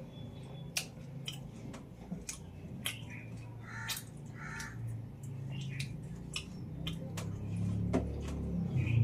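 Close-up eating sounds: irregular wet mouth clicks and smacks while chewing a meal of rice and chicken curry, over a low steady background rumble.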